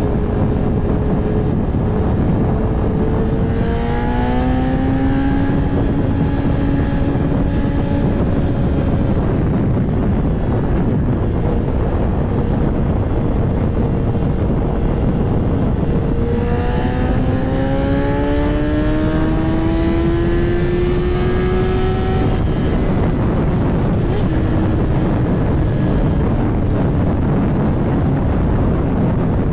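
Kawasaki ZX-10R's inline-four engine running under way, over heavy wind rush on the rider's camera. The engine note climbs in pitch about four seconds in, and again in a longer climb from about sixteen to twenty-two seconds in, as the bike accelerates.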